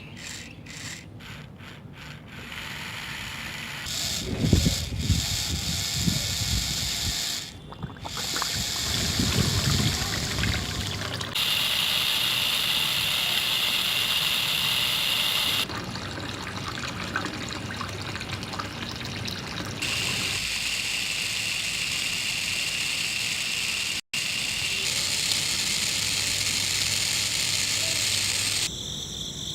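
Water pouring and trickling in several stretches of steady hiss that start and stop abruptly.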